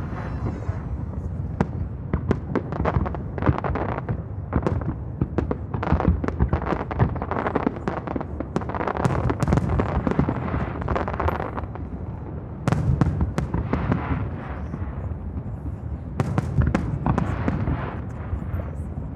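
Aerial fireworks bursting in rapid succession, a dense run of bangs and crackling reports, with a louder flurry of bangs about two-thirds of the way through.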